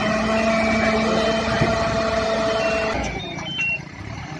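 Self-loading concrete mixer running, with a steady warning tone sounding over the machine noise that cuts off about three seconds in.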